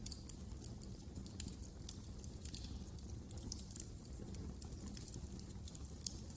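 Wood fire crackling in a fireplace: frequent, irregular small pops and snaps over a low, steady rumble of the burning fire.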